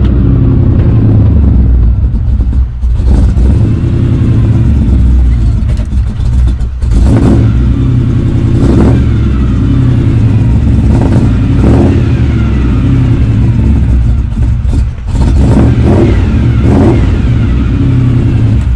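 Big-block V8 engine of a 1984 Chevrolet K5 Blazer running loudly after a cold start, its pitch rising and falling in places.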